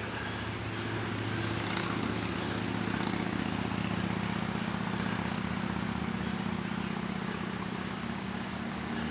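A low, steady engine drone with a fast pulsing hum, swelling gently and then easing off.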